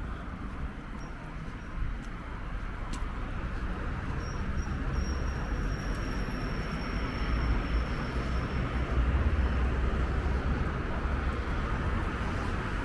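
City street ambience: road traffic running steadily, swelling toward the middle, with wind rumbling on the microphone. A thin high-pitched whine runs for a few seconds, starting about four seconds in.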